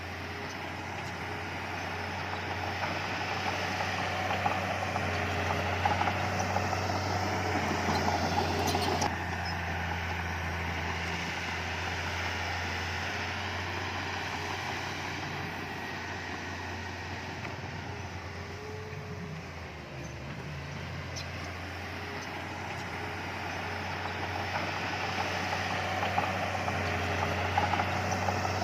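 Heavy diesel earthmoving machinery (bulldozer or dump truck) running under load with a steady low engine hum, swelling and easing as it works, with a sudden change in the sound about nine seconds in.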